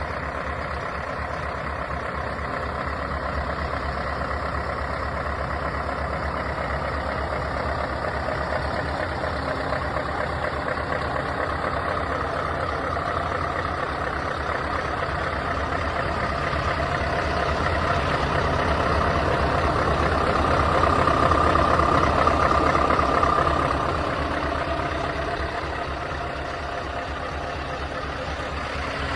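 Scania S520 truck's 16-litre V8 diesel engine running steadily, growing louder to a peak about twenty-three seconds in, then dropping back to its earlier level.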